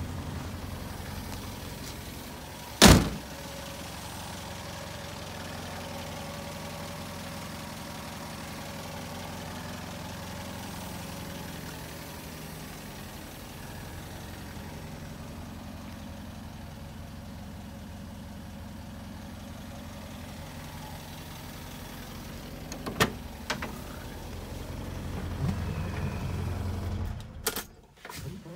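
Land Rover Series II engine idling steadily, then cutting off suddenly shortly before the end. A loud door slam about three seconds in, and a smaller knock later on.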